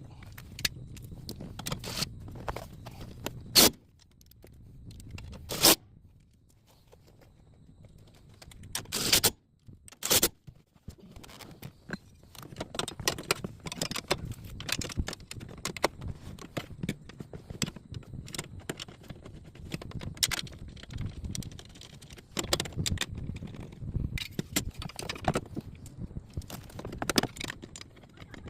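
Irregular clatter of hand work on a car's dash and heater box: scraping, small clicks and clinks of parts and tools, with a few sharp knocks in the first half.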